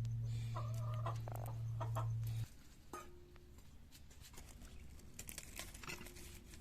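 Chickens clucking, with scattered light taps and clicks, over a steady low hum that cuts off suddenly about two and a half seconds in.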